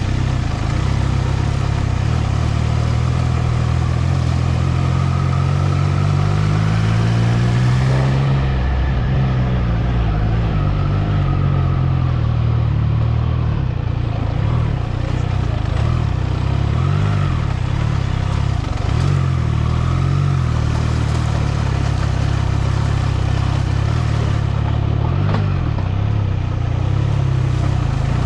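Triumph Trident 660's inline-three engine running under way. Its revs climb over the first eight seconds, drop back, then rise and fall with the throttle.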